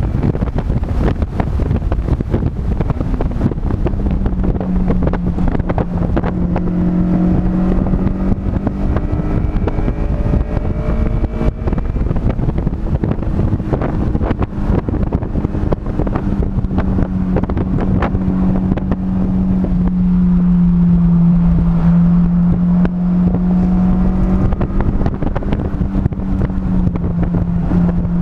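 Car engine running hard at speed on a racetrack, with heavy wind buffeting on the microphone and road rumble. A steady drone comes and goes, dipping and rising slightly in pitch with the revs.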